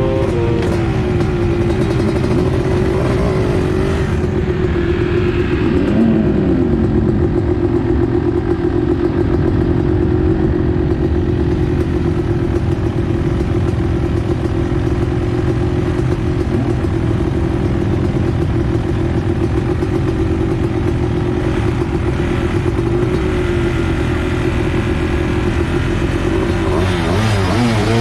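Baja mini bike's Kawasaki KX250 motorcycle engine running loud at a mostly steady high pitch, with brief rises and falls in pitch a few seconds in, again about three-quarters through, and a wavering near the end.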